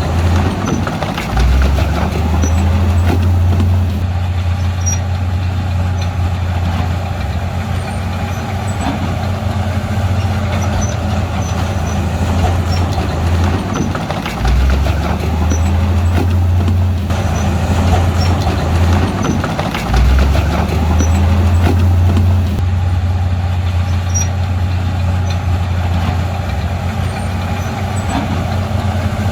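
Heavy diesel earthmoving machinery running, a deep steady engine drone that steps up in pitch and level three times: about a second and a half in, about fourteen seconds in and about twenty seconds in.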